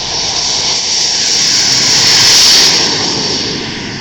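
Model jet's gas turbine engine at takeoff power, a loud steady whine and rush of exhaust that swells to its loudest about two and a half seconds in and then eases as the jet passes.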